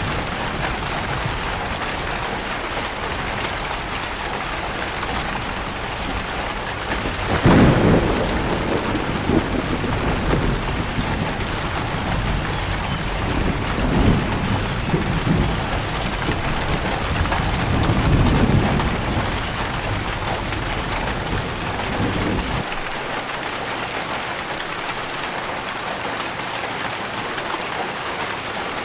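Steady heavy rain with thunder rumbling through it, the loudest rumble about a quarter of the way in and further rolls a little later. Near the end the deep rumble cuts off suddenly and only the rain hiss remains.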